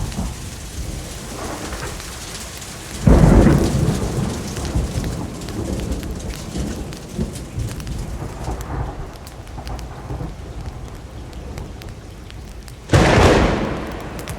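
Steady rain falling under a low rumble, with two sudden loud claps of thunder, one about three seconds in and one near the end, each dying away over a second or two.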